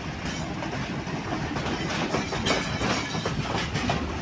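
Passenger train running on the track: a steady low rumble with irregular clacks as the wheels pass over rail joints and pointwork approaching the junction.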